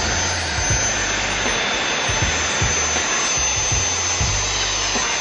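PrettyCare cordless handheld vacuum cleaner running steadily while cleaning a chair: a continuous motor hiss with a thin high whine. Background music with a bass line and a regular beat underneath.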